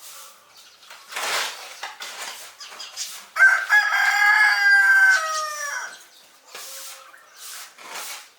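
A rooster crows once, starting about three and a half seconds in: one long call, held level and then dropping in pitch at the end, about two and a half seconds long. A short, noisy burst comes a couple of seconds before it.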